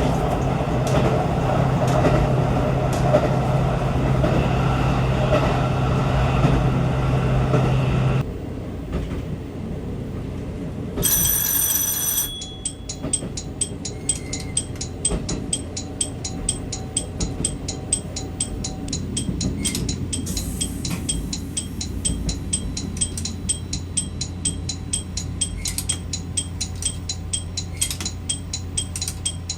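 A train running with a steady low hum. After about eight seconds it cuts out. A short electronic tone follows, then a steady hum with regular ticking, about two to three ticks a second.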